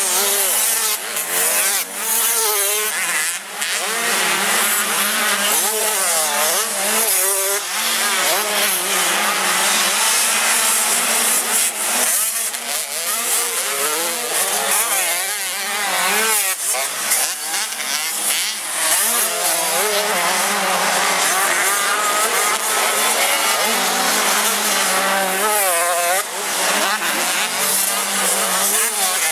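Several 85 cc two-stroke motocross bikes racing, their high-pitched engines revving up and down over and over as they rise and fall through the gears.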